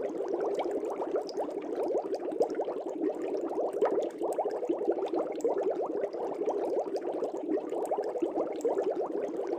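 Aquarium air bubbles rising and bubbling in the water of a fish tank: a steady, continuous patter of many small bubbles.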